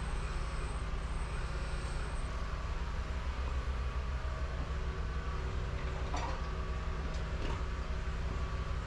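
Steady low machinery hum, with a couple of faint clicks about six and seven and a half seconds in.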